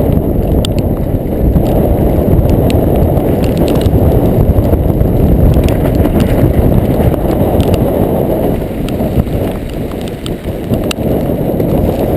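Heavy wind buffeting the microphone on a sailing dinghy, a loud low rumble throughout, with scattered light clicks and knocks from the boat.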